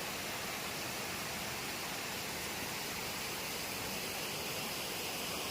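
Steady rushing hiss of a waterfall's water pouring down, unbroken and even.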